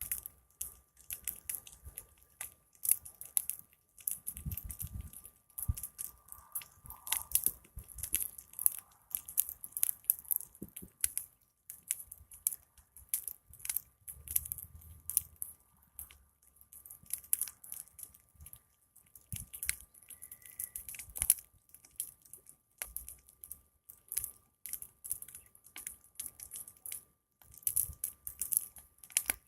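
Big wood fire crackling, with a constant, irregular stream of sharp pops and snaps and a few heavier low thuds.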